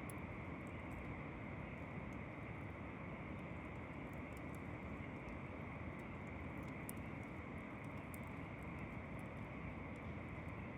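Campfire crackling with scattered sharp little pops over a steady rush of distant ocean surf.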